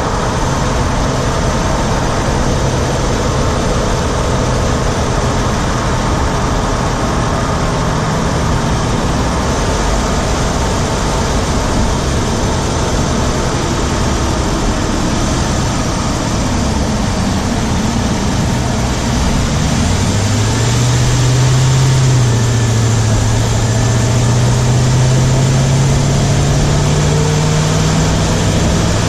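2017 Ram 1500's Hemi V8, heard from inside the engine compartment while driving, running with a ticking on the driver's side that the owner wonders is the usual Hemi tick or something else. About two-thirds of the way through, the engine note rises and keeps climbing slowly as the engine speeds up.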